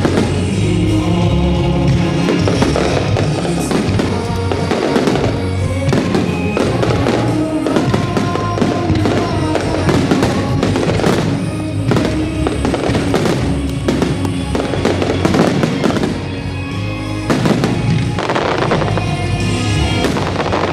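Starmine fireworks display: many aerial shells bursting in rapid, overlapping succession, a dense run of bangs and crackle over loud music.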